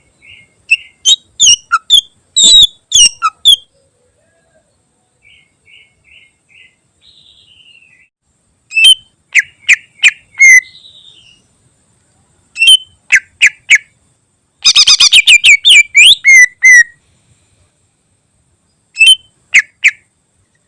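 Greater green leafbird (cucak ijo) singing in short loud phrases of sharp, quickly sliding whistled notes, separated by pauses, with softer chattering notes in between. About three-quarters of the way through comes a fast rattling run of notes.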